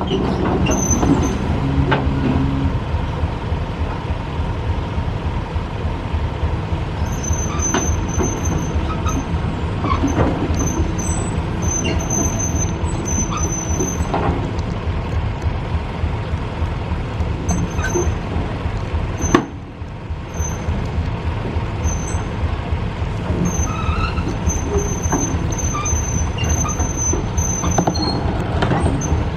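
Heavy machinery engine running steadily with a deep rumble, with intermittent thin high squeaks and a single sharp knock about two-thirds of the way through.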